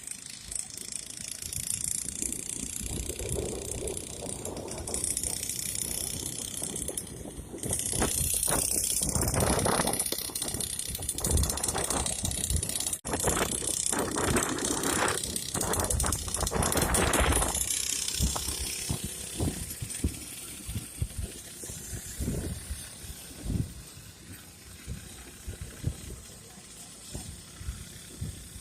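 Mechanical rattling and clatter from a 49cc petrol mini dirt bike, with irregular knocks, loudest in the middle stretch.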